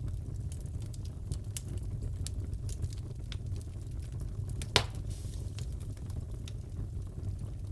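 Crackling fireplace: a steady low rumble of burning logs with scattered sharp crackles and one loud pop a little before the five-second mark.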